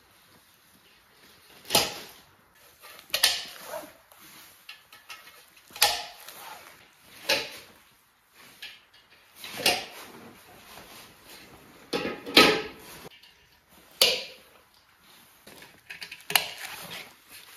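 Railing parts being handled and fitted together during assembly: a string of separate sharp knocks and clinks, some briefly ringing, coming every second or two with a doubled knock about twelve seconds in.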